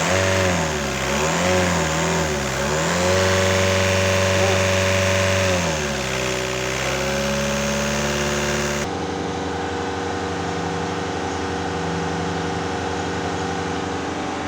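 Volkswagen 1.9 TDI diesel engine revved in a few quick blips, held at higher revs for a few seconds, then dropping back to a steady idle. It is being run up to check a turbo that is not boosting.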